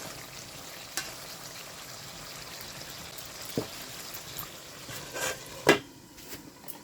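Chicken curry sizzling steadily in the cooking pot, with a few clanks of pot and utensils. A loud knock comes near the end, and after it the sizzling drops away.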